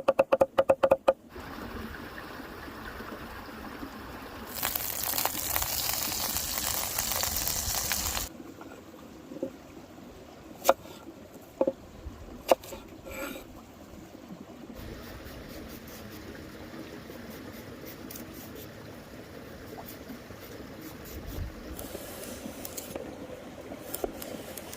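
Water running, with a louder stretch of rushing or pouring for about four seconds near the start. Several sharp knocks and clicks come in the quieter part after it.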